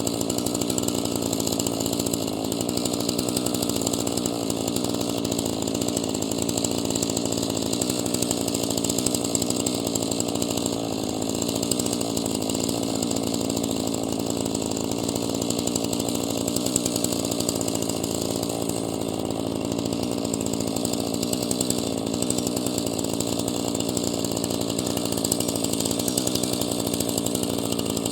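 Husqvarna chainsaw running steadily at a constant speed.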